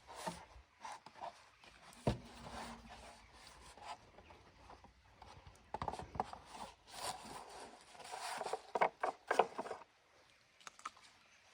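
Irregular scraping, rubbing and light knocks of mini moto parts being handled during a teardown, with a sharper knock about two seconds in and a busier stretch of scraping near the end.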